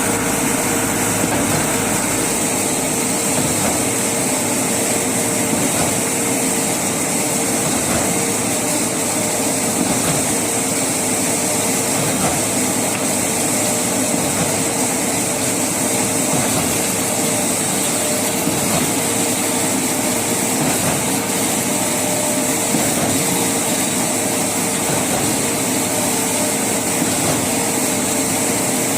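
A motor or engine running steadily, with a constant hum and a high hiss.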